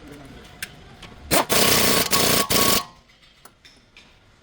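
A power tool runs loudly in three quick bursts for about a second and a half, then stops suddenly, during work on the car's outer tie rod.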